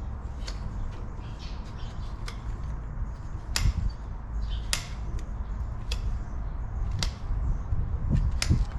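Sharp snaps at irregular intervals, roughly one a second, as hoof horn is cut during trimming, over a steady low rumble.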